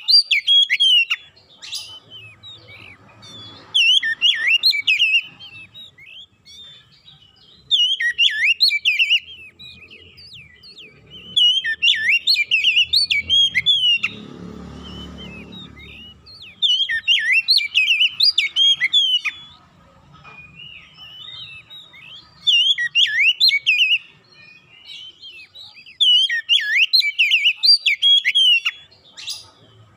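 Oriental magpie-robin (kacer) singing in loud phrases of about a second and a half, each made of quick whistles and sliding chirps, repeated roughly every four seconds. A low rumble comes in about halfway through.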